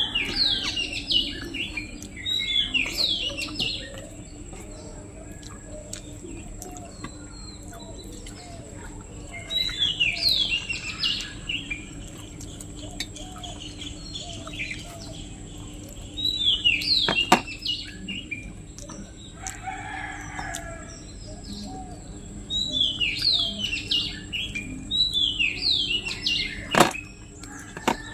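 A small bird singing outdoors in bursts of quick, high, falling notes, each burst lasting a couple of seconds and coming back every several seconds. A couple of sharp clicks are heard alongside the song.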